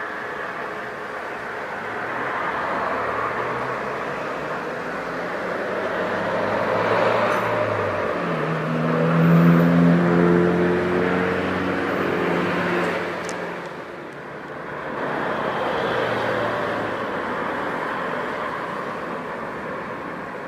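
Jet airliner passing close by: a roar with engine tones that slide down in pitch, swelling to its loudest about nine to ten seconds in, dipping near fourteen seconds, then swelling again before it fades.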